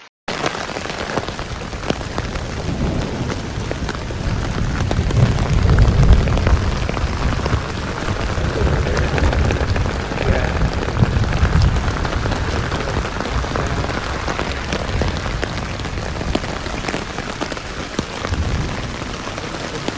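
Heavy rain falling steadily in a thunderstorm, a dense patter of drops. Low thunder rumbles swell through it a couple of times around the middle.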